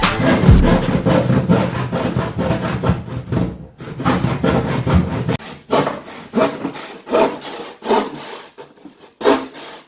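Handsaw cutting wood in repeated back-and-forth strokes, about one and a half a second in the second half. A low steady sound underneath stops about halfway through.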